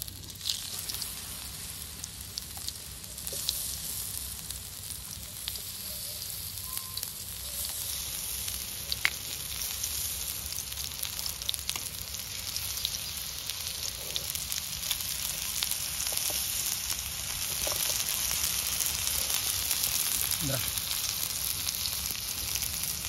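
Masala-coated raw plantain slices shallow-frying in oil on a flat pan: a steady sizzling hiss with scattered small pops, getting louder as more slices are laid in.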